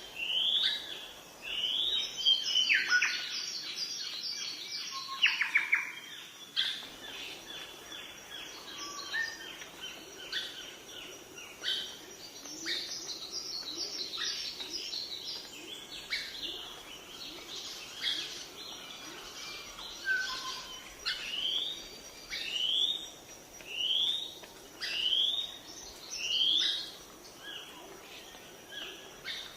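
Several birds calling and singing together: one short rising call repeated every second or two, over fast high-pitched trills and scattered chirps.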